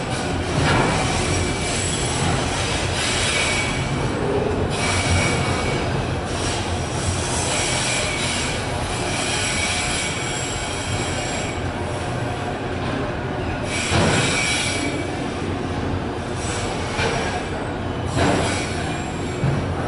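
Freight train of enclosed autorack cars rolling past, with a steady rumble of wheels on rail. A thin high squeal comes and goes, and sharp clanks sound about a second in, near the 14-second mark and again a few seconds later.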